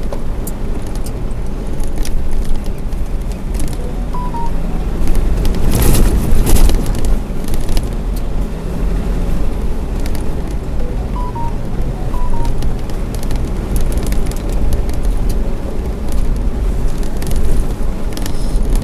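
A car driving, with steady engine and road rumble heard from inside the vehicle. A louder rushing swell comes about six seconds in, and a short two-note electronic beep sounds three times.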